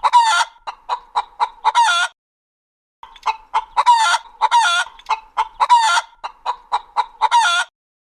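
Chicken sound effect: a rapid run of short clucks broken by longer drawn-out cackling calls, a pause of about a second, then the same run again.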